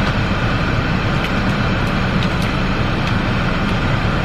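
Steady, loud rumble and hiss of a moving vehicle's road and engine noise, with no breaks.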